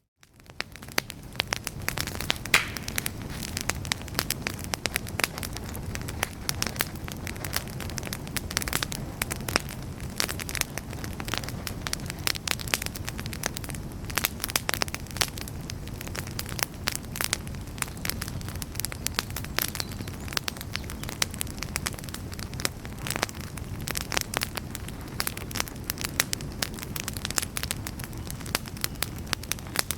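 Wood campfire crackling: dense, irregular pops and snaps over a steady low rumble of burning flames, fading back in after a brief dropout at the very start.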